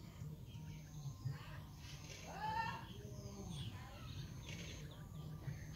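Outdoor ambience with birds calling: one clear rising-and-falling call about two and a half seconds in, and fainter calls around it.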